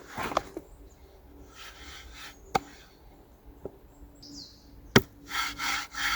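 Knife work on a wooden board, likely potatoes being cut into wedges: a few sharp knocks against the board, the loudest about five seconds in, and longer scraping strokes. A bird chirps briefly.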